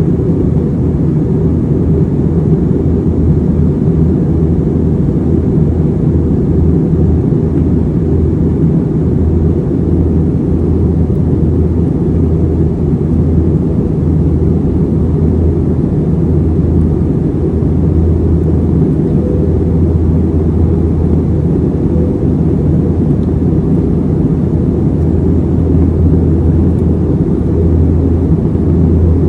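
Airbus A321 cabin noise in flight: a steady, loud low rumble of the jet engines and airflow, with no change in pitch.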